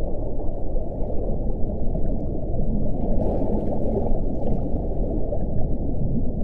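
Steady low wind rushing, with a gust brightening the sound about three seconds in.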